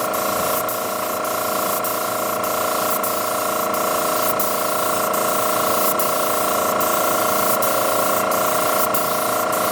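Steady spraying hiss with a constant whine of several steady tones underneath.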